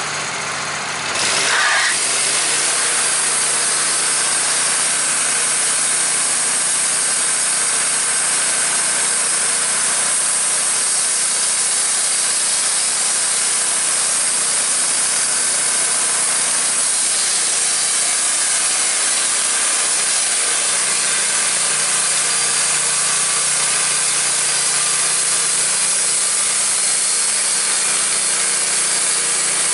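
Sawmill engine running with its blade cutting lengthwise through a log. The engine picks up load about a second in, and then a steady cutting hiss holds.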